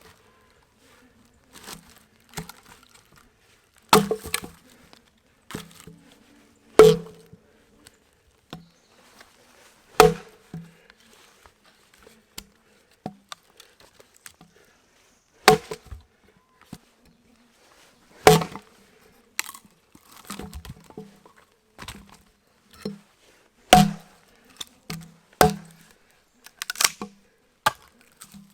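Axe chopping a downed pine log: sharp, loud strikes every few seconds, with lighter knocks in between.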